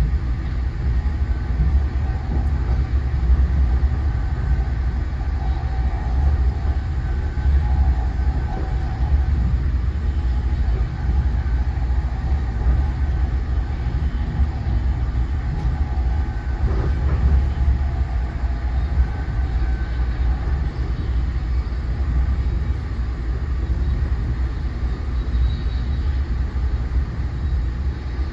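Interior of an NJ Transit MultiLevel passenger coach running at speed: a steady, heavy low rumble of wheels on the rails, with a faint steady whine above it.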